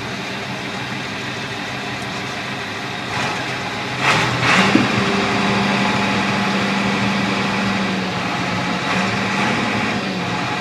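John Deere 4240 tractor's six-cylinder diesel engine running. It gets louder about four seconds in, then holds a steady low hum almost to the end.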